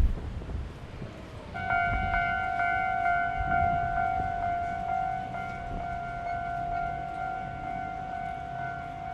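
Railway level-crossing alarm starts sounding about a second and a half in and keeps going as one steady pitched electronic tone, over gusts of wind on the microphone.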